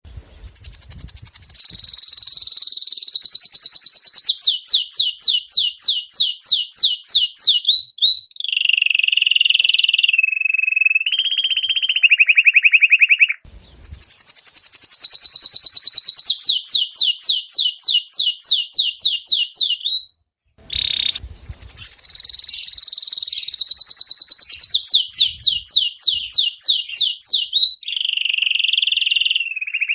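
Domestic canary singing in long, loud phrases. Each phrase opens with a high, rapid trill, runs into a string of quick falling notes about four a second, and ends in a lower trill. There are short breaks about halfway through and again about two-thirds in.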